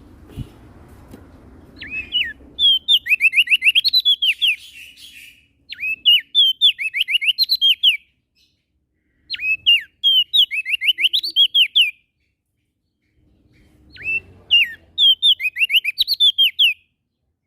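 Prenjak daun songbird singing four bursts of song, each two to three seconds of quick, sharp whistled notes, with short pauses between bursts.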